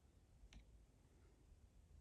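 Near silence: room tone with a single faint click about half a second in.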